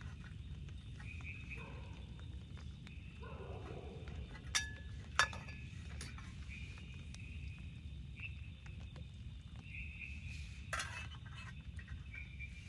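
Two sharp metallic clinks about half a second apart near the middle, the second ringing briefly, from camp cookware or a utensil being handled, with a softer knock later. Under them runs a steady low rush of rain, and short high calls of forest animals come and go.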